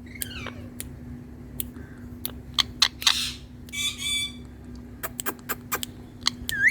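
Indian ringneck parrot vocalising: many sharp clicks, a short harsh squawk about three seconds in, a brief chatter about a second later, and a rising whistle near the end.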